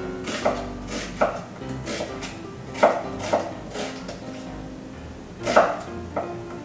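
Chef's knife slicing a red onion on a wooden cutting board: uneven knife strikes against the board, the loudest about three seconds in and again near the end. Background music plays under it.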